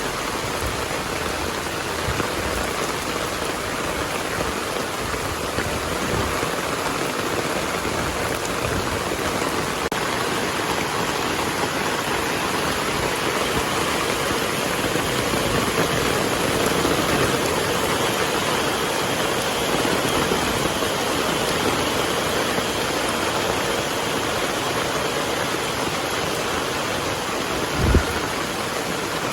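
Heavy rain falling steadily, with one brief low thump near the end.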